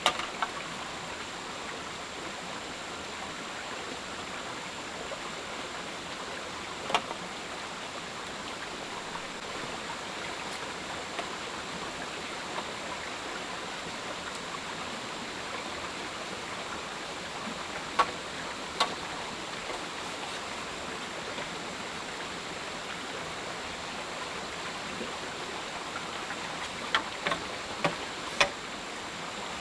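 Steady rushing of flowing water with a faint, high, steady whine above it. A few sharp knocks or clicks break through: one about a quarter of the way in, two close together past the middle, and a quick cluster near the end.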